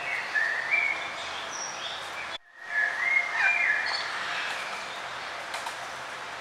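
Several songbirds chirping and warbling over a steady outdoor background hiss. All sound cuts out for a split second about two and a half seconds in, then the birdsong resumes.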